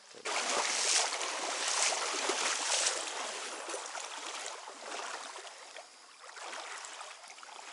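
Stream water splashing and rushing close to the microphone. It starts suddenly just after the start, is loudest for about three seconds, then eases off.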